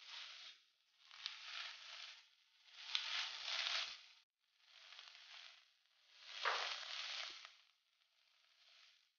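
Tuna, onion and bell pepper sizzling in oil in a nonstick pan as they are stirred with a spatula. The hiss swells and fades about six times, once with each stir, with a few light clicks of the spatula against the pan.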